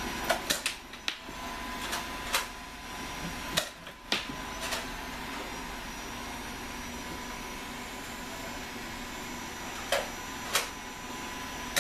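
Nerf foam-dart blasters being primed and fired: scattered sharp clicks and knocks over a steady mechanical hum. There is a cluster of clicks in the first few seconds and two clear knocks about ten seconds in.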